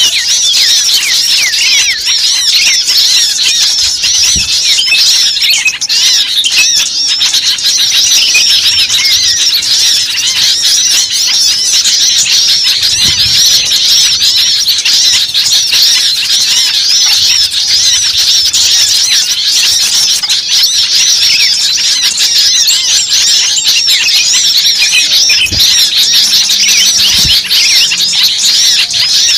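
Dense chorus of many small birds calling at once, rapid high chirps and squeaks overlapping without pause: a bird-lure recording made to draw small birds in.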